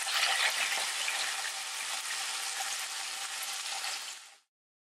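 Chicken thigh pieces and green peppers sizzling in oyster-mayonnaise sauce in a frying pan: a steady hiss that fades and stops about four seconds in.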